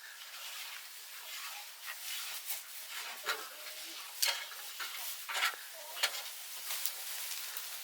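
Irregular scraping and stirring strokes, a few of them sharper, over a steady hiss.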